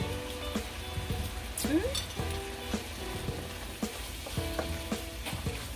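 Chicken adobo sizzling in a nonstick skillet as it is stirred with a silicone spoon. The spoon knocks and scrapes against the pan now and then.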